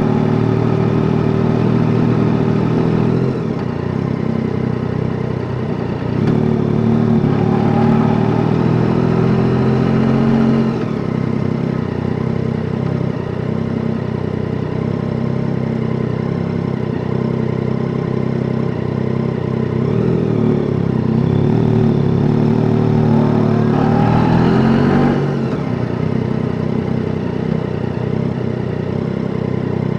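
Yamaha Tracer 9 GT's three-cylinder engine running under way, its note rising and falling with throttle and gear changes, with a sharp rev-up a few seconds before the end that then drops away.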